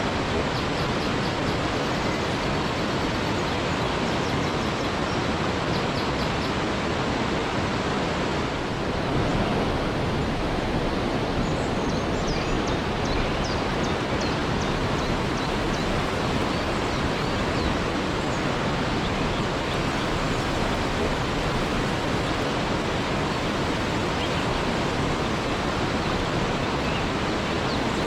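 Waterfall: water falling and rushing in a steady, even roar of noise. A few faint high chirps come through near the middle.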